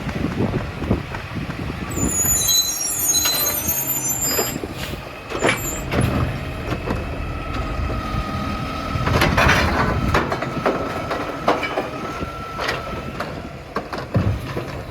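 New Way Sidewinder side-loading recycling truck running, its engine rumbling under a string of clanks and knocks, with high-pitched squeals a few seconds in.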